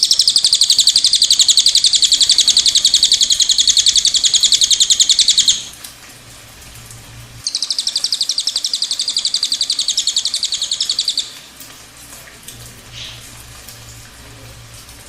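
Cililin songbird singing its long rolling trill (ngerol): a fast, high-pitched run of rapidly repeated notes that lasts about five and a half seconds. After a short pause it sings a second trill of nearly four seconds.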